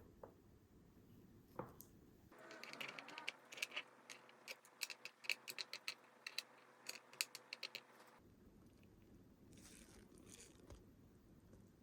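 Quiet handling of a DIY candy kit: a run of small, sharp clicks and scrapes between about two and eight seconds in, then only faint rustling.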